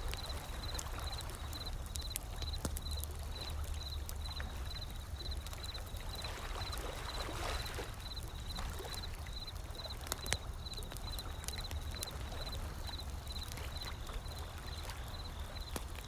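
Wood fire crackling with scattered sharp pops over a low, steady rumble of ocean waves, and one wave swells and washes in about seven seconds in. A faint high chirp repeats evenly, a few times a second.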